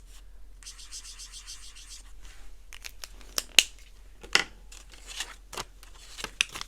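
Paper bills and a cash-stuffing tracker being handled: soft rustling, then a run of sharp clicks and snaps, the loudest about three and a half seconds in.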